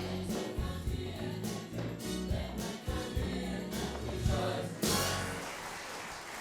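Gospel-style choir music over a low bass line with sharp percussive hits, cutting off about five seconds in.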